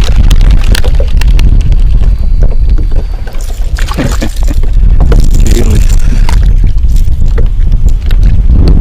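Heavy wind buffeting the microphone in a steady low rumble, with scattered clicks and knocks throughout.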